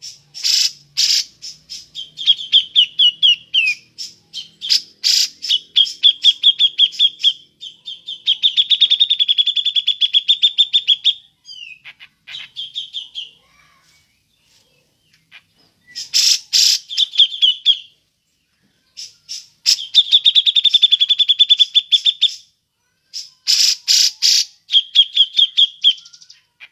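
Cucak jenggot (grey-cheeked bulbul) calling in its chattering 'ngepik' style: bursts of fast, rapidly repeated notes a second or a few seconds long, broken by short pauses, with one longer gap about halfway through.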